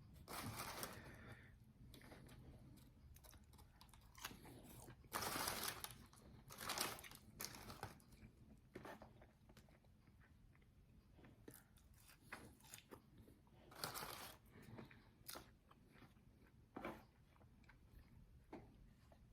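Close-up eating sounds of crispy, extra-well-done fried chicken wings being bitten and chewed: irregular crunches every second or so, loudest about five to seven seconds in, with softer chewing between them.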